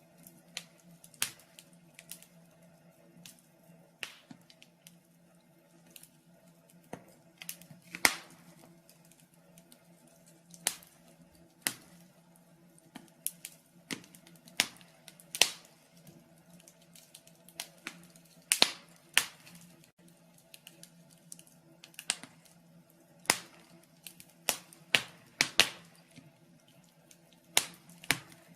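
Wood fire in a fireplace crackling: irregular sharp pops and snaps, sometimes several close together, over a faint steady hum. The loudest snaps come about a third of the way in and around two-thirds of the way through.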